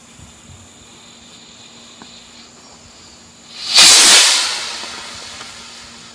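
Small firework rocket's motor igniting about three and a half seconds in: a sudden loud rushing hiss that fades over the next two seconds as the rocket climbs away.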